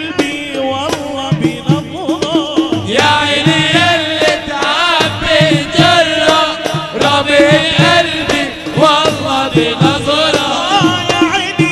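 Male munshid singing an Arabic nasheed in a winding, ornamented line over steady percussion beats; about three seconds in the voice becomes fuller and brighter.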